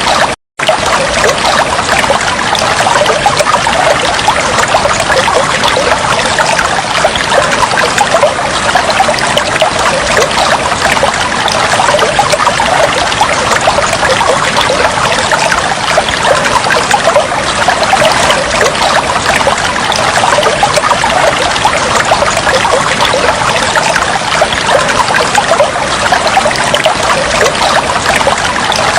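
Water trickling and flowing steadily, a dense even splashing with no pauses except a momentary cut to silence about half a second in.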